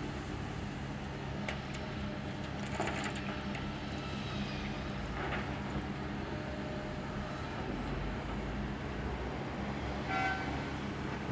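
Heavy diesel engines of an excavator and dump trucks running steadily, with a few sharp clanks and scrapes of loading in the first half and a brief high tone near the end.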